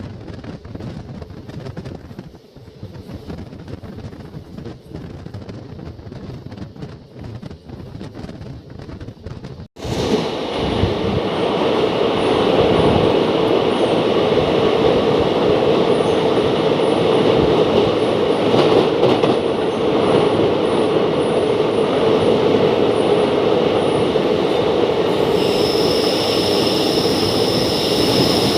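Passenger train coach rolling along the track, the steady noise of its wheels on the rails. About ten seconds in it turns abruptly louder, and near the end a steady high-pitched whine joins in.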